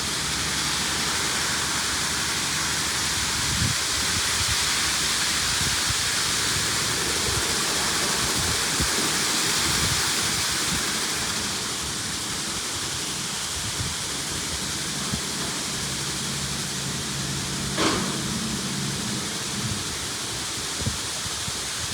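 LaserWash G5 touch-free car wash spraying water onto the car, heard from inside the cabin: a steady hiss of spray on the body and glass that eases slightly about halfway. Near the end a short knock is followed by a low hum for a couple of seconds.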